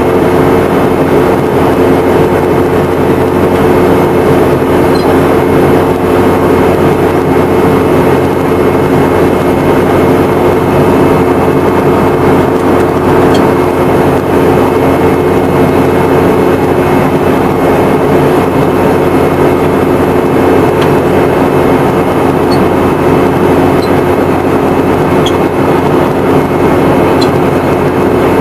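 Steady cabin noise of a Boeing 717-200 in flight, heard from a rear window seat close to its tail-mounted Rolls-Royce BR715 turbofans. It is a constant loud rush with a steady low hum and no change in power.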